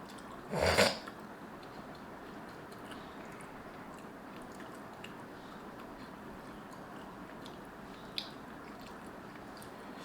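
A person eating spicy instant noodles: faint chewing over steady room hiss, with one loud, short burst of noise about half a second in and a small click near the end.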